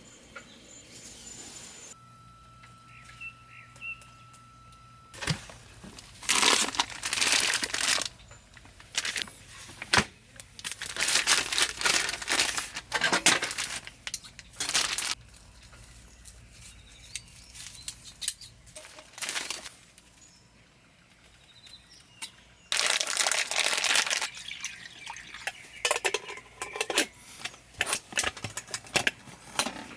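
Crinkling and rustling in irregular bursts, as crinkly material is handled, coming in two busy spells with quieter gaps between.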